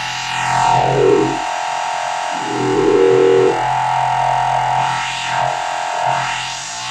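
Modular synthesizer lead: an FM-modulated saw-wave oscillator through distortion and delay, buzzing over a held tone while the lower notes change. Its filter is swept, so whistling glides rise and fall through the upper range.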